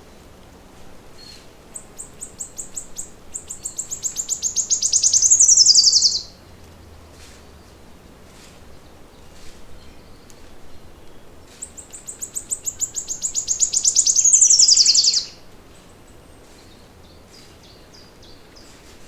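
A songbird singing two long songs, about five seconds apart: each is a rapid trill of high repeated notes that grows louder and ends in a falling sweep. Faint short chirps come between the songs.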